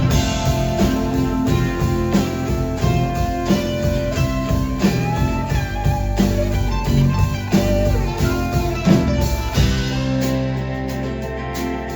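Live band playing an instrumental break in a country-rock song: a lead guitar plays over bass and a steady drum beat. The band thins out about ten seconds in.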